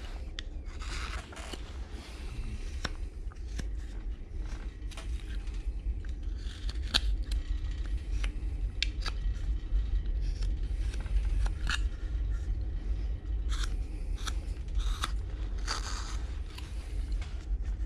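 A hand knife slicing and scraping wood as a carving is shaped, in short, crisp, irregular cuts, over a low steady hum.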